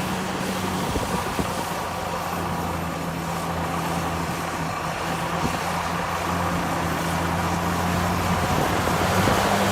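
Heavy diesel engine of a construction machine running steadily under load, growing a little louder near the end.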